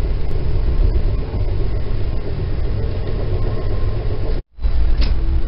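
Steady low rumble of a passenger train running at speed, heard from inside the coach. The sound cuts out completely for a split second about four and a half seconds in, then picks up again with a faint steady hum added.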